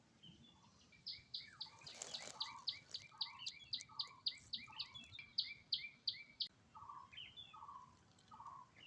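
A bird calling: a rapid, even series of short high chirps, about four a second, that stops near the middle, followed by a few lower notes near the end.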